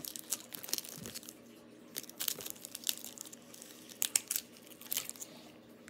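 Candy wrapper crinkling and tearing in irregular crackles as a piece of candy is unwrapped by hand.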